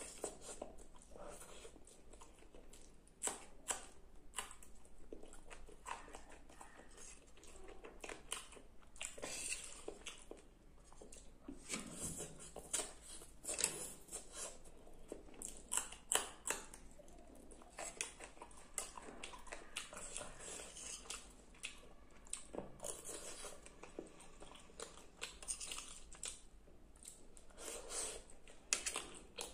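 Close-miked chewing of a mouthful of Maggi noodles and macaroni, wet mouth sounds with many short clicks as a steel spoon scrapes and taps the plate.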